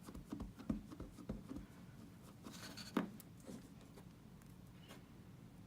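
A rubber stamp being tapped on a Versamark ink pad: a run of soft taps, then a light rustle and a sharper knock about three seconds in.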